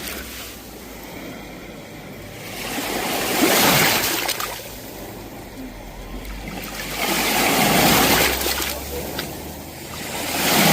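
Sea waves breaking and washing on the shore, the surf swelling up three times a few seconds apart over a steady rush of water.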